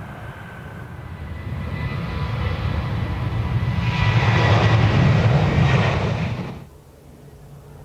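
An airliner's engines growing louder as it passes close by on the runway, with a steady whine over the rumble. The sound cuts off suddenly near the end, leaving a quieter low hum.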